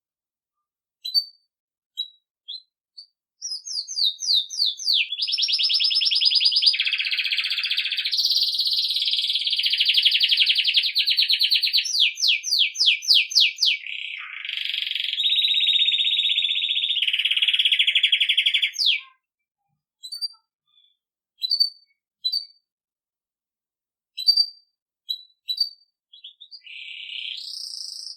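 Belgian canary singing in the bell-like 'campainha' style: a few short single chirps, then a long run of rapid trills and rolling phrases that change pitch every second or two, then scattered chirps again before the song resumes near the end.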